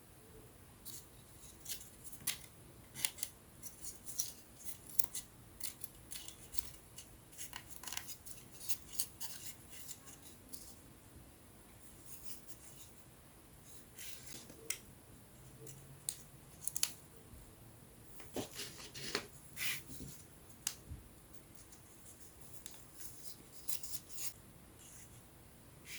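Irregular small, sharp clicks and snips of thin wooden puzzle parts being handled and fitted together, in quick clusters with a quieter spell in the middle.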